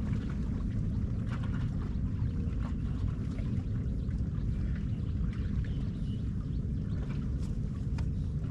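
Outdoor ambience: a steady low rumble with faint, scattered chirps and ticks above it.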